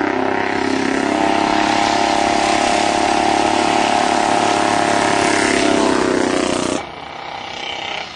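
Vintage racing motorcycle engine running hard at high revs, its pitch fairly steady, cutting off abruptly near the end.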